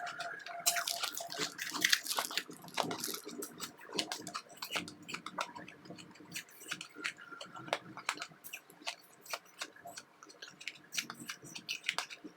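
Powdery ice chips being chewed close to the microphone: many small crisp crunches and crackles at an uneven pace, thickest in the first few seconds.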